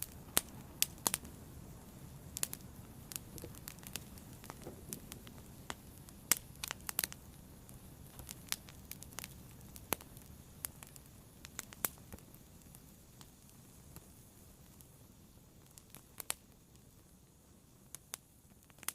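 Fire crackling, with sharp irregular pops and snaps over a soft low rustle of flames. The pops thin out and the background quietens gradually over the last few seconds.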